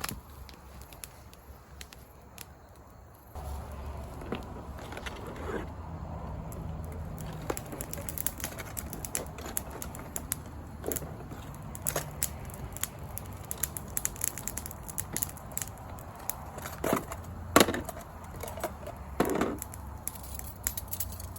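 Campfire crackling, with many scattered sharp snaps and knocks and one loud crack near the end, over a steady low rumble that starts abruptly a few seconds in.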